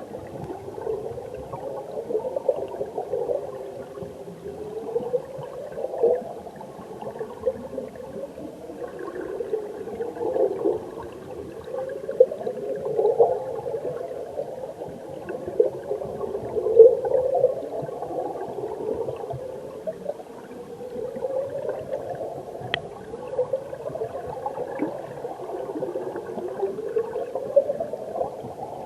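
Stream water heard underwater: continuous bubbling and gurgling of the current. A pitch rises in sweeps about every two and a half seconds, and there is a single sharp click near the end.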